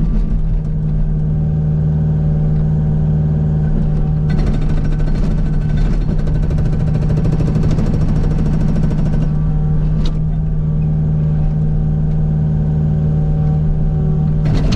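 Kubota U55 mini excavator's diesel engine running steadily, with the Agrotk 680 hydraulic breaker hammering rock in a fast, even run of blows from about four to nine seconds in.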